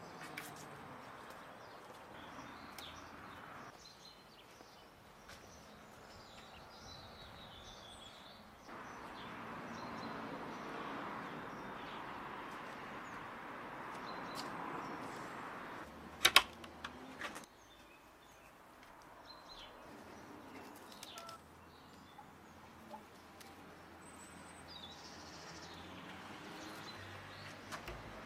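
Outdoor ambience with small birds chirping now and then. A steady rushing hiss fills the middle stretch, and a single sharp knock sounds about sixteen seconds in.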